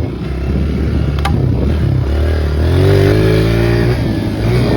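Four-stroke dirt bike engine with stock exhaust running and being revved: the pitch climbs a little past two seconds in, then eases back. There is a sharp click about a second in.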